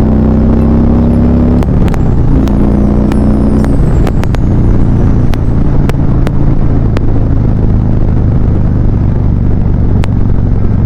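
Harley-Davidson V-twin motorcycle engine under way: its pitch climbs, drops at a gear change about a second and a half in, climbs again, then settles into a steady cruise from about four seconds in. Occasional sharp clicks sound over it.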